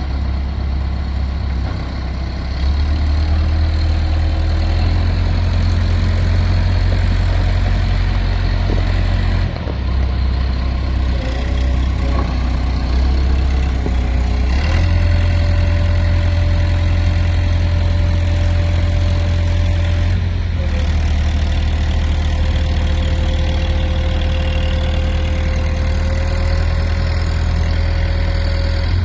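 Diesel engine of a Caterpillar heavy machine running steadily, its low rumble stepping up and down a few times as it is worked. A thin whine rides over it, holding one pitch, then jumping to another.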